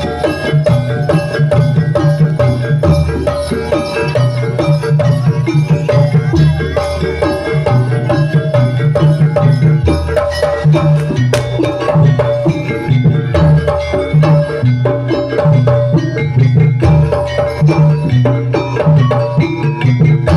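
Live jaranan (kuda lumping) ensemble music: drums beat a repeating pattern under steadily ringing gongs and metallophones.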